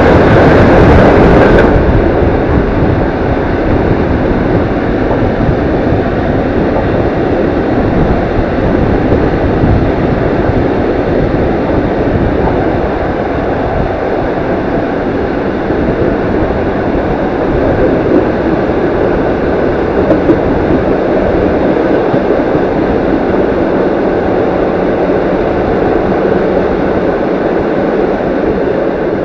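Loud rush of a freight train's tank cars passing close alongside, cutting off suddenly about two seconds in. Then the steady rumble of the passenger train running along the track.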